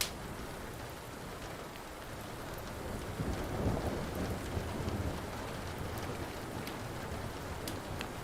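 Steady rain with a low rumble of thunder swelling about three seconds in. Sharp pops from a crackling wood fire come now and then.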